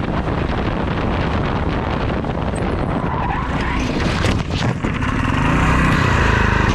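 A vehicle's engine running hard with tires squealing and skidding; the squeal grows louder about five seconds in.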